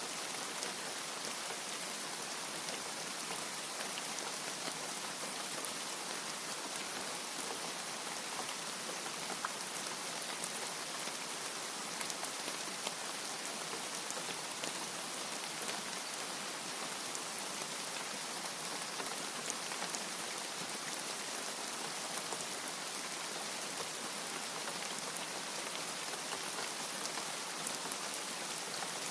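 Steady rain falling, an even hiss of countless drops with small patters throughout and no thunder.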